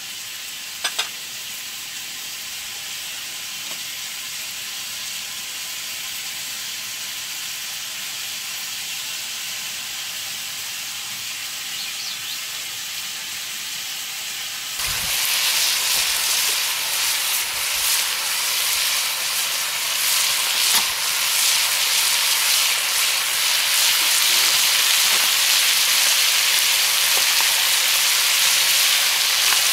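Food sizzling as it fries in a hot pan, with a sharp click about a second in. About halfway through the sizzle turns louder and crackles more.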